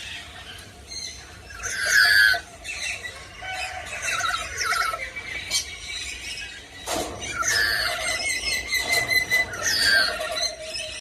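Black-capped lory, a parrot, calling with repeated shrill screeches. The loudest screech comes about two seconds in, with a sharp click about seven seconds in.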